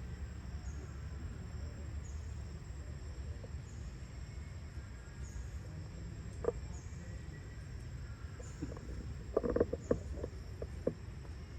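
Insects, likely crickets, buzzing steadily, with a faint chirp repeating about once a second over a low rumble. A few short sharp clicks or knocks come in the last few seconds.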